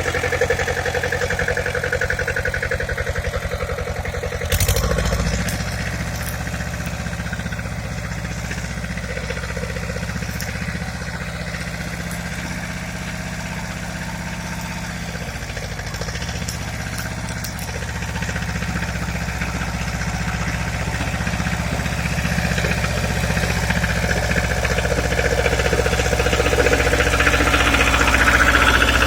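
Pasquali tractor engine running steadily. About four and a half seconds in its note shifts with a short click, and it grows gradually louder over the last several seconds.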